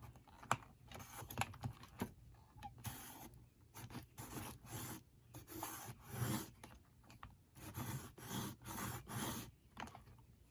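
A tool scraping back and forth over paper or board in about a dozen short strokes, after a few light taps, as a binding piece is worked by hand.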